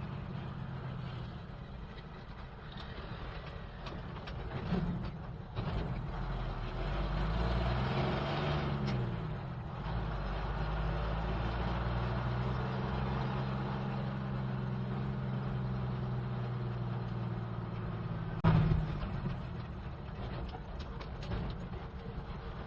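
Old BMC truck's engine running on the move, its pitch rising and falling about eight seconds in as the revs change. A sharp thump comes about eighteen seconds in.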